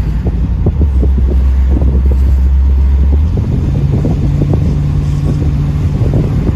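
1984 Pontiac Trans Am under way, its engine drone stepping up to a higher pitch about three and a half seconds in, with wind buffeting the microphone throughout.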